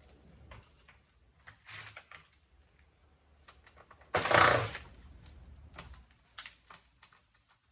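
Light clicks and rattles of scrap electronics parts and wire being handled, with one louder rustling clatter about four seconds in.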